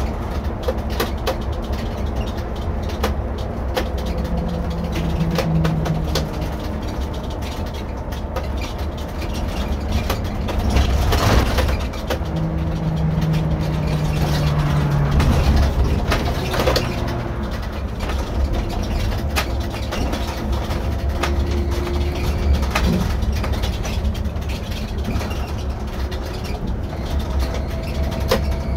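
Irisbus Récréo II coach on the move, heard from the driver's seat: steady low diesel rumble with scattered rattles and clicks, and the engine note swelling twice, about four seconds in and again from about twelve seconds in, as the bus pulls.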